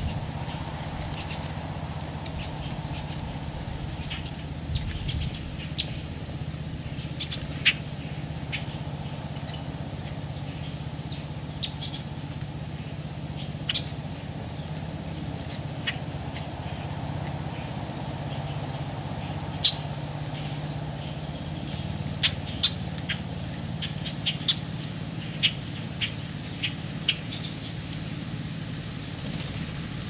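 Birds giving short, sharp chirps and chucks, scattered at first and more frequent in the last third, over a steady low hum.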